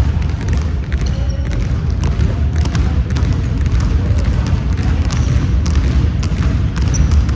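Indoor basketball game: the ball bouncing on the court and sneakers squeaking, with many short sharp knocks over a steady low rumble.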